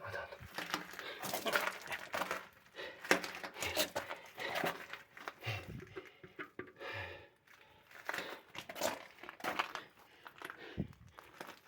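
Irregular rustling, scuffing and scraping of clothing and bodies against the rock while squeezing through a narrow lava cave passage, with a few dull knocks.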